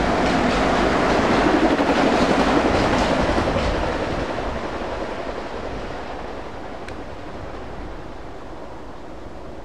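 A train passing on the rails, wheels clicking over the rail joints, loudest in the first few seconds and then fading steadily as it moves away.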